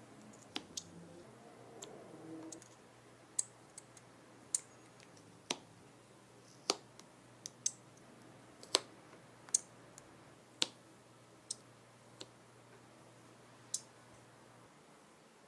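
A string of sharp, irregular clicks or taps, roughly one a second, over a faint steady hum that stops near the end.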